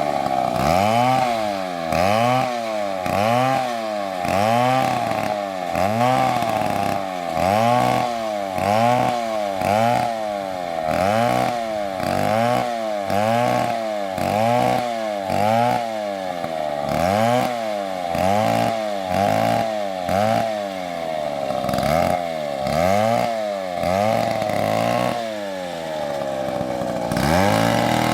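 Chainsaw cutting into a tree, its engine pitch rising and falling about once a second as the saw works the cut, then holding steadier near the end.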